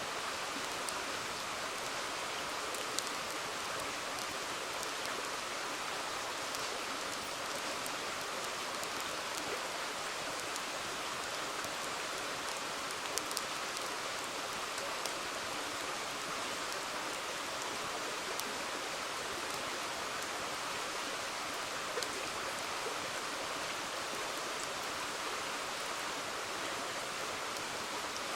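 River water flowing in a steady rush, with a wood campfire giving a few sharp crackling pops.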